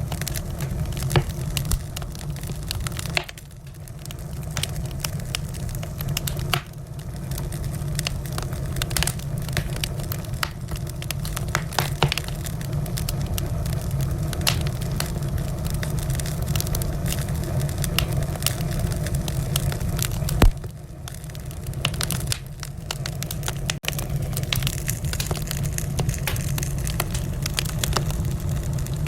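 Wood fire crackling in a fireplace: a steady low rumble of burning logs with frequent irregular pops and snaps, one sharp loud pop about two-thirds of the way through.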